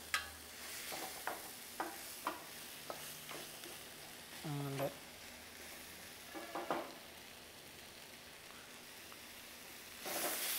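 Crab masala sizzling in a stainless steel pan while a spatula stirs it, with several sharp clicks of the spatula against the pan in the first few seconds. The sizzle gets louder near the end.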